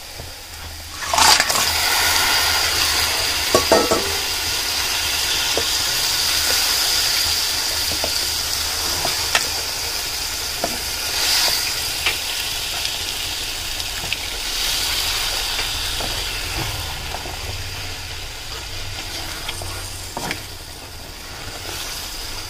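Raw crab pieces going into a hot pan of fried masala, which sizzles loudly from about a second in and slowly dies down as the moisture cooks off. A wooden spatula scrapes and clicks against the pan as the crab is stirred in.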